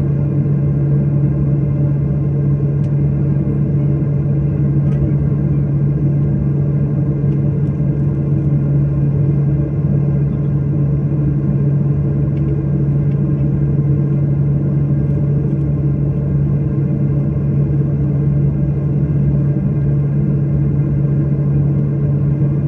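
Steady drone of an airliner's engines heard inside the passenger cabin: a strong low hum with steady higher tones over it, unchanging throughout.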